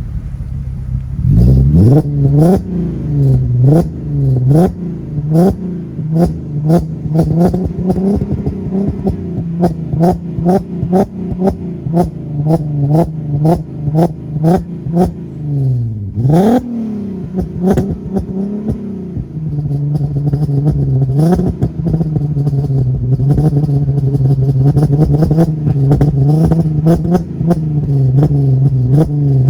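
Volkswagen Golf R32 Mk5's 3.2-litre VR6 engine running through a full 3-inch Scorpion exhaust, coming in about a second in and revved in quick repeated blips, with one bigger rev about halfway, then holding a steady raised idle near the end.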